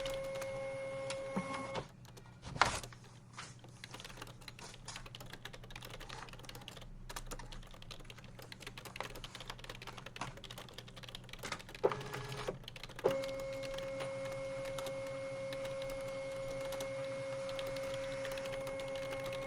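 Computer keyboard typing: a run of irregular key clicks with one louder knock near the start. A steady mechanical hum runs at the beginning, drops out as the typing starts, and comes back about two-thirds of the way through.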